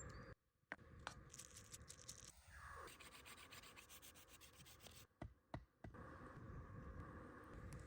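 Faint rubbing and scratching, with a few sharp clicks and two short gaps where the sound drops out.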